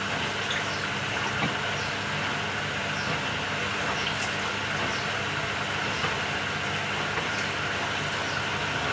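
Samsung 6.5 kg top-loading washing machine running mid-cycle: a steady churning noise with a low hum and a few faint scattered ticks.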